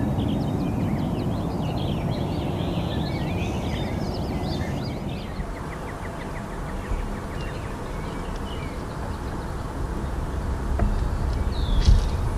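Small birds chirping, many short calls in the first half and only a few later, over a steady low rumble of outdoor background noise. A low thump near the end.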